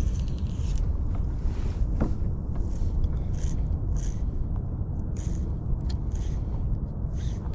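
Steady low rumble of wind buffeting the microphone on a kayak, with short soft hisses every half second or so.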